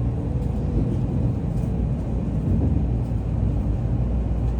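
Shinkansen bullet train running: a steady low rumble.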